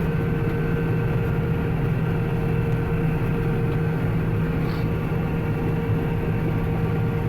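Combine harvester running steadily while cutting wheat: a constant engine and machinery drone with a steady hum.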